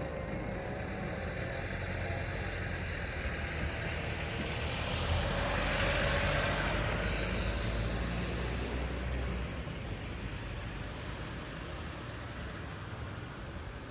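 A motor vehicle passing close by on a city road, its tyre and engine noise swelling to a peak about six seconds in, dropping in pitch as it goes by, and fading away over a steady low traffic rumble.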